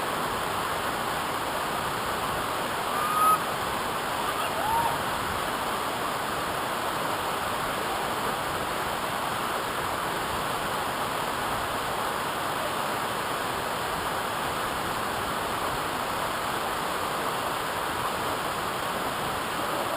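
Waterfall rushing with a steady, even roar of falling water. Two brief whistle-like notes cut through it, one about three seconds in and another a second and a half later.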